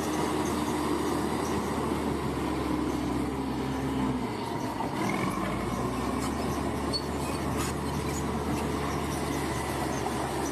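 Bulldozer's diesel engine running steadily, with squealing and clanking from its steel tracks. The engine note drops away briefly about four seconds in, then picks up again.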